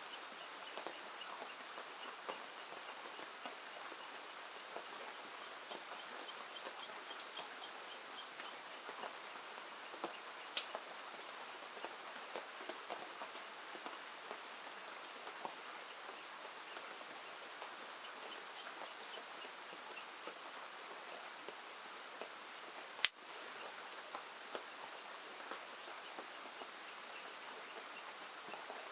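Steady rain falling, with many small drop clicks over an even hiss, and one sharp snap about three-quarters of the way through.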